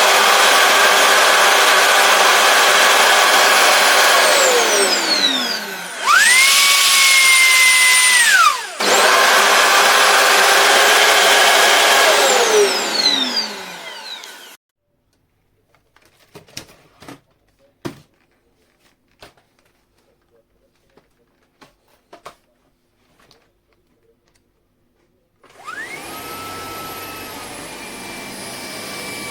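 Shark PowerDetect Clean & Empty vacuum running loudly with rushing air and a high motor whine that spins up about 6 s in and cuts off abruptly near 9 s. The noise winds down and stops about 15 s in, followed by a few handling clicks. A quieter motor whine starts up about 26 s in.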